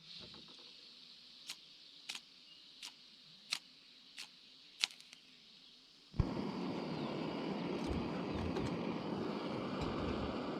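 A series of sharp clicks or snaps, roughly one every second, over a faint hiss. About six seconds in, this cuts off suddenly into a steady, louder rushing noise.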